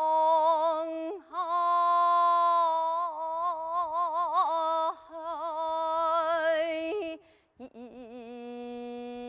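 A woman singing jeongga, the Korean classical vocal style, unaccompanied. She holds long notes with a slow, wide wavering, with a brief break about seven seconds in before she settles on a lower held note.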